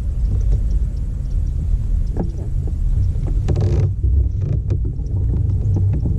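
Fishing kayak under way across the lake: a steady low rumble, with scattered knocks and creaks from the hull and gear and a short clatter a little past the middle.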